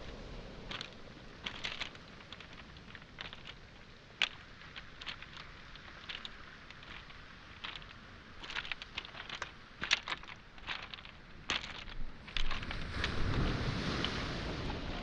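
Footsteps on a beach of pebbles and small boulders: irregular clicks and knocks of stones shifting underfoot. From about two thirds in, a wave washes up the shore, swelling into a steady rush.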